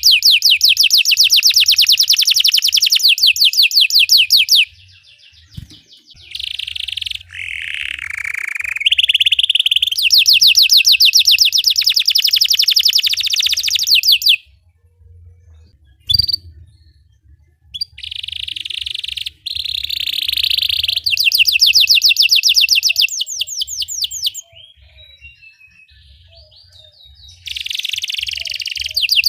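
A Belgian canary singing long, fast trills of rapidly repeated high notes. The trills are broken by a few short pauses, and between them come some lower, slurred phrases.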